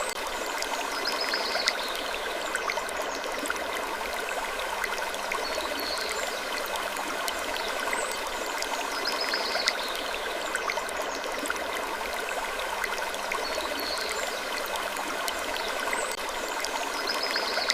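Steady stream-like rushing ambience, sprinkled with small ticks and a faint high squeak every couple of seconds.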